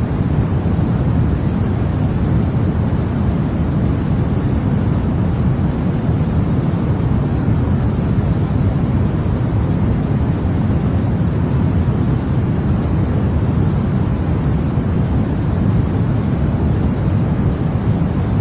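Continuous white noise of the kind played to help babies sleep, an even, unchanging hiss that is heaviest in the low end.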